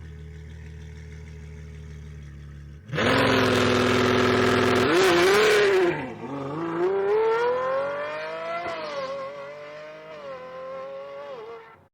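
Ferrari 812 Superfast's naturally aspirated V12 through a Novitec straight-pipe exhaust: a steady low hum, then about three seconds in a sudden very loud blast under hard acceleration. The pitch then climbs steadily and drops slightly twice as it shifts up, before cutting off at the end.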